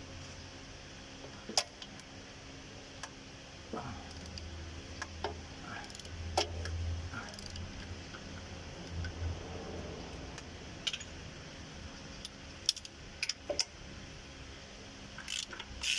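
Scattered metallic clinks and taps of hand tools on the bolted installer tool for a Scania truck's rear crankshaft oil seal, as the tool is worked loose and taken off. The clinks come more often near the end, over a steady low hum.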